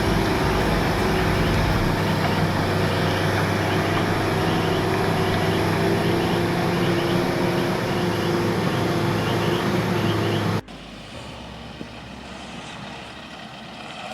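Heavy truck's diesel engine running steadily under load. About ten and a half seconds in it cuts off abruptly to a quieter, duller vehicle sound.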